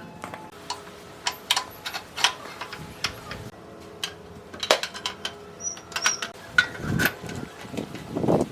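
Hand tools and metal parts clicking and clinking at irregular intervals, some strikes ringing briefly, with a duller scraping knock near the end.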